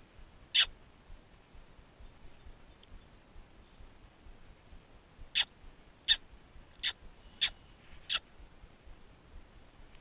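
A small wild bird's short, sharp, high chirps, each dropping in pitch: one about half a second in, then five in a quick series about two-thirds of a second apart.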